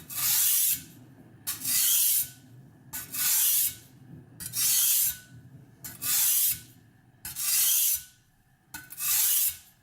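Knife blade stroked across the fine side of an oiled sharpening stone: seven even scrapes about a second and a half apart, each well under a second long. The strokes are wide and light, carrying just the weight of the blade.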